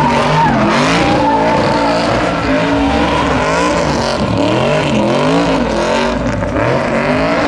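A V8 pickup truck engine revving hard, its pitch rising and falling over and over, about once a second, during a burnout, with tires squealing under it.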